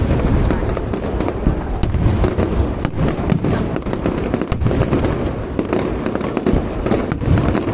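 Fireworks display in full barrage: a dense, unbroken run of deep booms and many sharp cracks overlapping one another.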